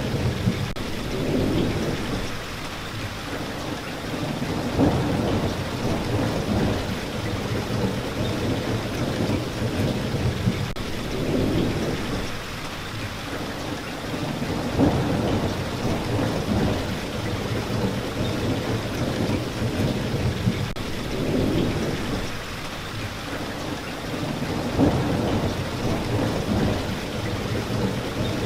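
Steady rain falling, with low rumbles of thunder that swell and fade every few seconds.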